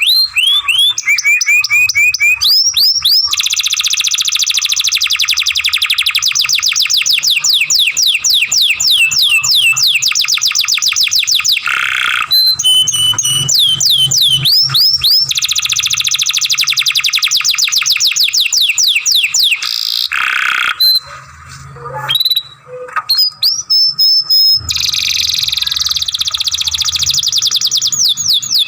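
Young canary singing a long song: runs of quick repeated falling-pitch notes, several a second, with a few held whistled notes between them and a short break about three-quarters of the way through.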